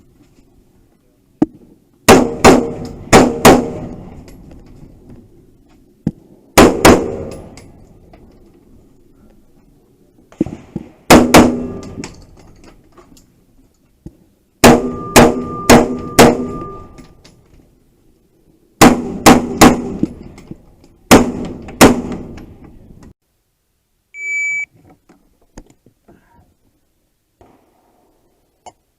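Gunfire in quick groups of two to five shots, six groups in all, with steel targets ringing after the hits. Near the end comes one short, high beep.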